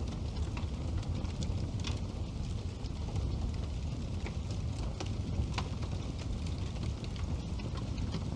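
Wood fire burning in a fireplace: a steady low rumble of the flames with sharp crackles and pops at irregular moments, a few of them louder, around two and five seconds in.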